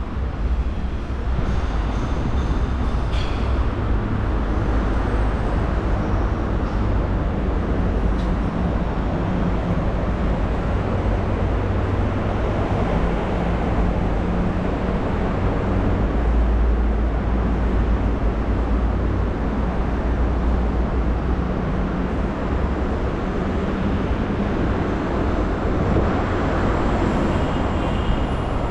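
Steady low rumble of motor traffic with a faint engine hum, holding level without a clear start or stop.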